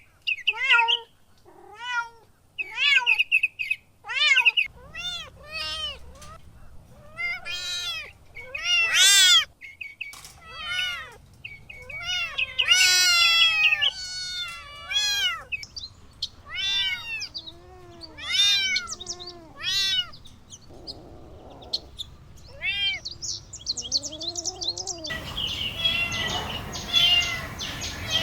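Kittens meowing over and over in short, high-pitched mews, each rising then falling in pitch, about two a second. Near the end a steady hiss with faint rapid chirps comes in behind the mews.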